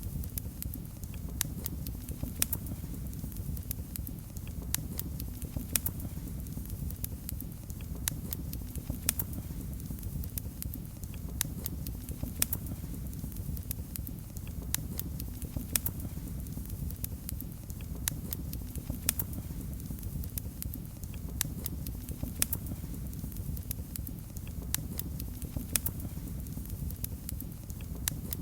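Fire in a fireplace crackling, with irregular sharp pops and snaps over a steady low rumble of flame.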